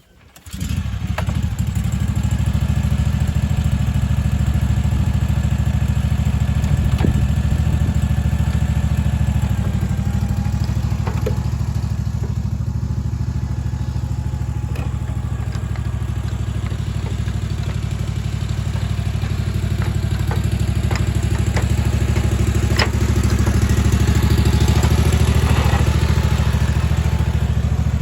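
Engine of a Bunton 48-inch walk-behind mower running steadily. It cuts in suddenly just after the start, with scattered light knocks and rattles over the engine.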